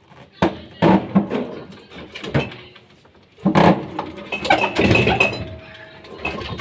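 Knocks, clatter and rattles of hard plastic and metal refrigerator parts being handled and shut, in two bursts of strikes.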